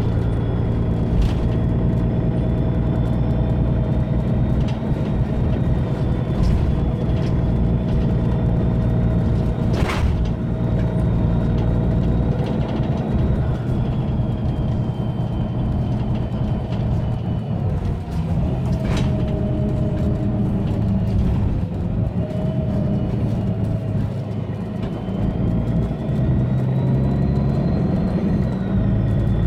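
Mercedes-Benz Citaro bus's OM457hLA straight-six diesel running under way, with a loud high turbo whistle over the engine's low hum. The whistle wavers in pitch, drops away for a few seconds past the middle and swells again near the end, and a couple of sharp knocks come about a third and two-thirds of the way through.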